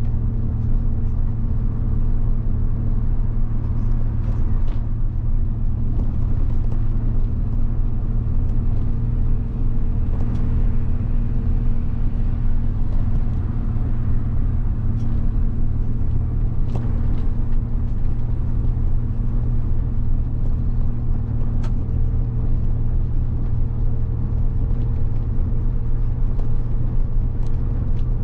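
1990 Mitsubishi Fuso bus's 7.5-litre diesel engine running steadily, its low hum holding one pitch throughout.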